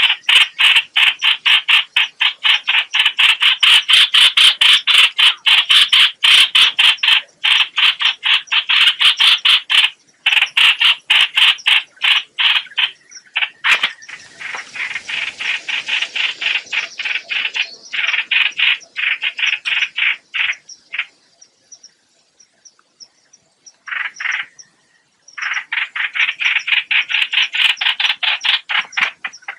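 Recorded lure call of the hoạch hoạch bird used for trapping: a fast, even series of short, harsh, croaking notes, several a second. The notes thin out past the middle, break off for a few seconds, then start again near the end.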